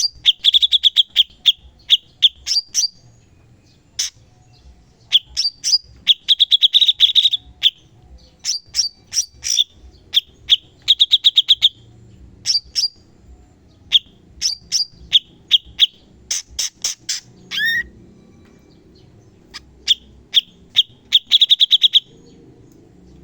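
Cucak cungkok songbird singing in rapid-fire bursts: volleys of fast, sharp repeated notes and chips, each burst lasting a second or two with short pauses between. One note swoops downward near the end of a burst, about three quarters of the way through.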